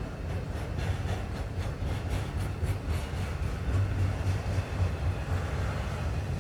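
Canadian Pacific train rolling past: a steady low rumble from the moving cars, with repeated faint wheel clicks through the first half.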